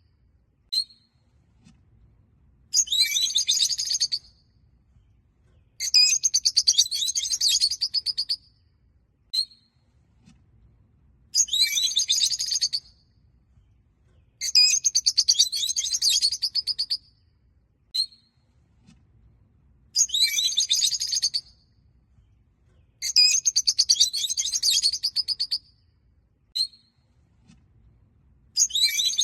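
Peach-faced lovebirds chattering in repeated bursts of rapid, high-pitched chirps, each about two seconds long and coming about every three seconds, with a single short chirp in most of the gaps.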